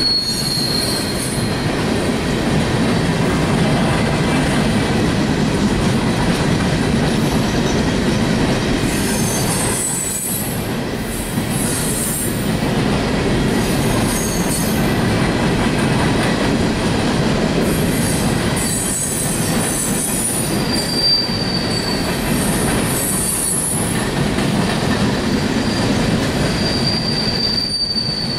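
A train's cars rolling past on the rails in a steady rumble, with brief high-pitched wheel squeals about a second in, around 21 seconds, and again near the end.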